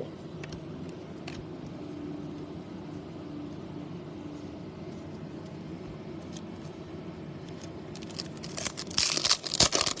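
Steady low background hum, then from about eight seconds in a loud run of crinkling and rustling as trading-card packs and cards are handled.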